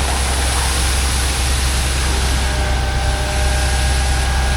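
Concrete pump truck's diesel engine running steadily, a strong low drone with a faint steady whine above it.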